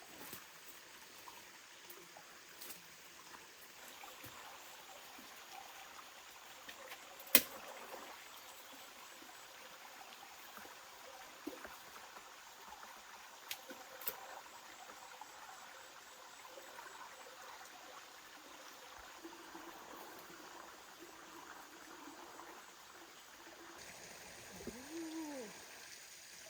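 Faint, steady running water like a small stream, with one sharp click or knock about seven seconds in and a few fainter clicks later.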